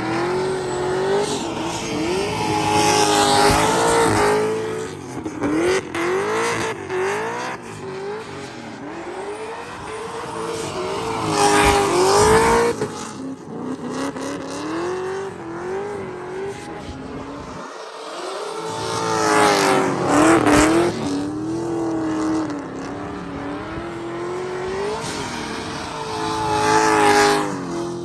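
GM LS V8 in a Nissan S13 drift car revving hard up and down over and over, with tyre squeal in places. The engine peaks loudest about four times, roughly every eight seconds.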